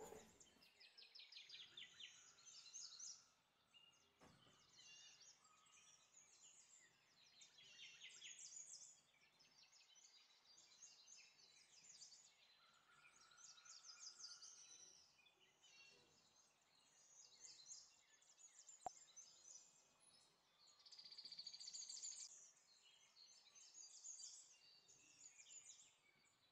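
Faint birdsong: repeated high chirps and quick trills that come and go, with a single sharp click about nineteen seconds in.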